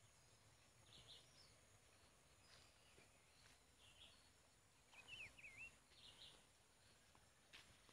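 Quiet outdoor ambience with a few short bird chirps every second or two, the loudest a pair of quick whistled up-and-down notes about five seconds in.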